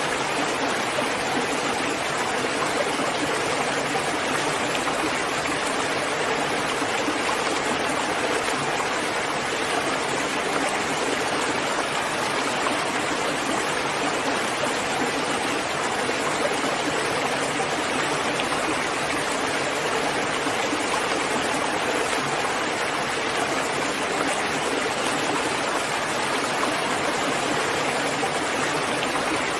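Steady rain falling: an even, unbroken wash of water noise.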